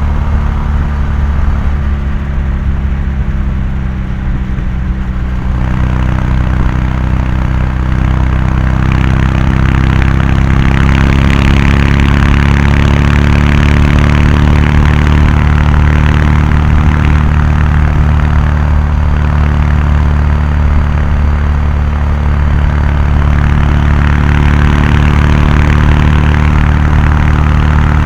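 Kawasaki Meguro K3's air-cooled parallel-twin exhaust at highway speed. The note rises and grows louder as the throttle opens about five seconds in, then holds steady at cruise, with a rush of air noise that grows alongside it.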